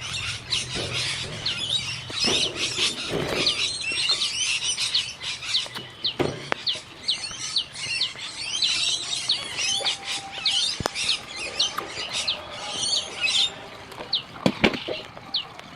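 Caged parakeets chirping and chattering rapidly in high, short calls that thin out to single short chirps about three seconds before the end, with a few sharp clicks.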